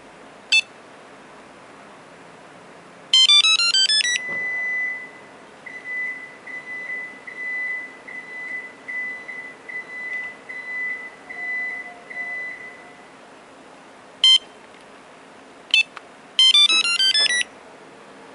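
Electronic beeps and chime melodies from a Viper 5902 remote engine starter system. There is a short beep, then a quick rising run of tones, then a steady high tone pulsing for about nine seconds. Two more single beeps follow, and another quick run of tones comes near the end.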